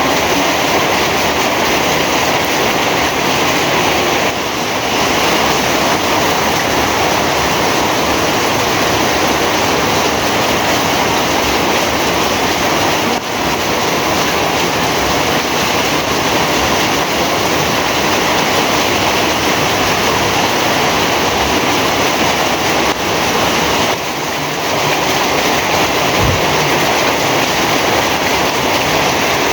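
Heavy rain pouring down in a steady, dense hiss, easing very slightly for a moment twice.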